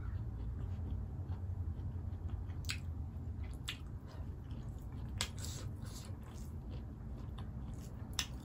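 Close-miked chewing and wet mouth sounds of a person eating rice and pork curry by hand, with a few short sharp smacks scattered through.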